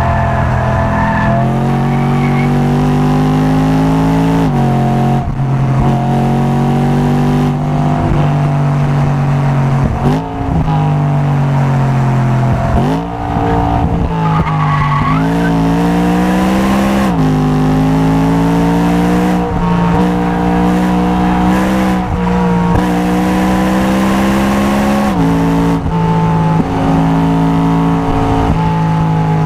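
Car engine running hard on a race circuit, climbing in pitch through the revs and dropping at each gear change, about seven times. A short tyre squeal comes through a corner about halfway in.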